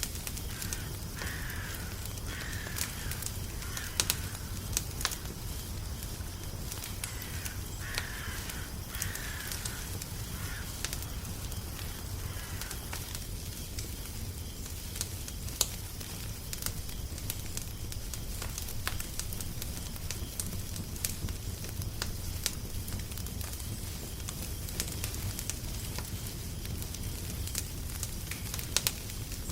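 Wood fire crackling with scattered sharp pops over a steady low rumble. A bird calls in two short runs of a few calls each, about a second in and again about eight seconds in.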